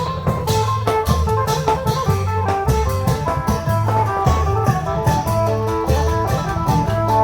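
Isan klong yao long-drum procession band playing: a steady, repeating beat of deep drums with regular cymbal strokes under a plucked-string melody.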